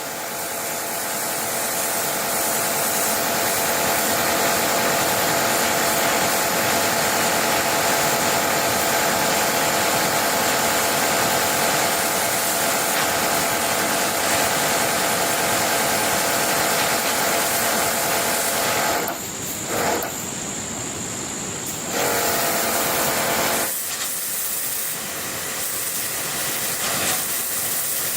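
A woodworking power tool running steadily with a loud hiss and a steady whine, cutting wood; it drops off briefly about two-thirds of the way through, then runs on more quietly near the end.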